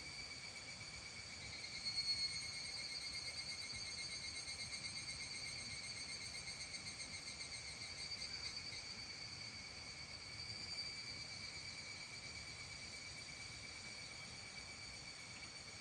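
A steady chorus of trilling insects, a high, finely pulsing buzz that swells briefly about two seconds in and again near the end of the first half, over faint rural background hum.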